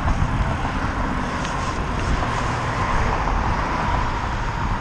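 Wind rumbling on the microphone and road noise while riding a bicycle, with a faint steady whine running through it.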